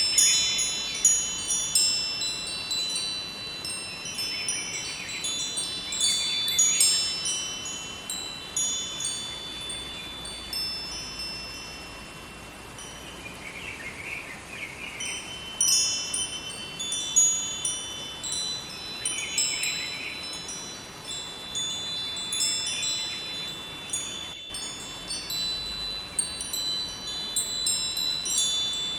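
Wind chimes ringing, struck at irregular moments in clusters of clear high tones that ring on and overlap, with a steady rush of river water beneath. The chimes thin out for a few seconds around the middle before picking up again.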